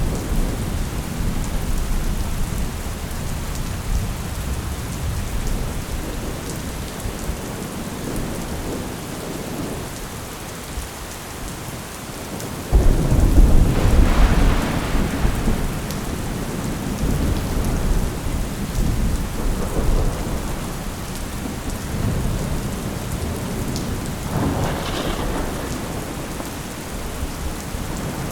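Thunderstorm: steady rain falling, with thunder rumbling. About halfway through, a sudden loud thunderclap breaks and rolls on for a few seconds, the loudest event. A second, weaker roll of thunder comes near the end.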